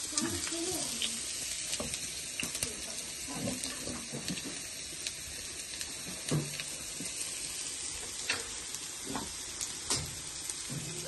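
Food frying in a pan: a steady sizzling hiss with scattered sharp clicks of a utensil stirring against the pan.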